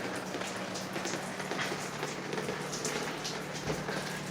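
Water dripping and splashing steadily in many small drops, with a faint steady low hum under it: runoff from fighting the fire upstairs coming down through the ceiling and walls.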